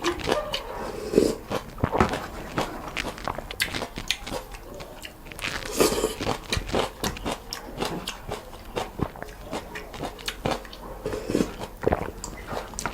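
A person eating noodles and soup: irregular chewing and biting with many small mouth clicks.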